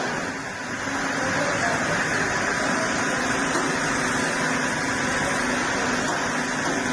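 Sawmill machinery running steadily, a constant hum under a continuous hiss.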